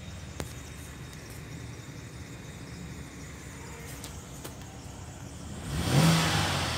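Holden Commodore 3.6-litre V6 idling, heard from inside the cabin, with a light click near the start. Near the end the engine is revved to around 2,000 rpm, its pitch rising and then easing back.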